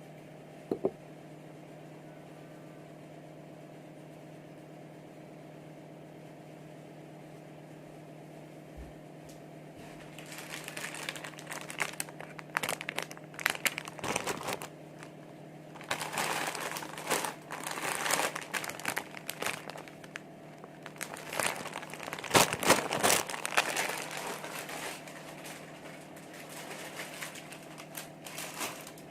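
Crinkling and rustling of packaging being handled, in irregular bursts that start about a third of the way in, over a steady low hum.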